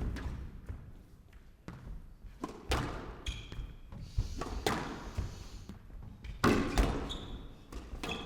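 Squash rally: a run of sharp ball strikes off rackets and walls, several seconds apart at first and closer together later. Short squeaks of shoes on the court floor come between them.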